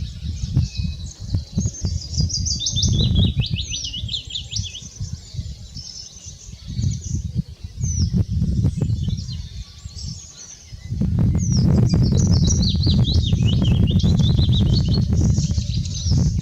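Small songbirds singing fast, high, twittering phrases over a low rumbling noise that grows louder and steadier about eleven seconds in.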